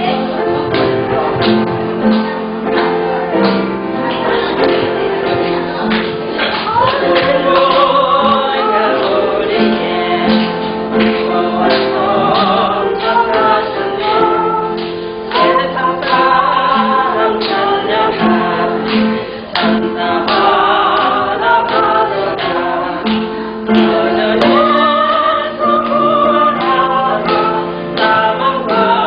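Church praise song sung by a group of men's and women's voices together, over an instrumental accompaniment with regular strokes.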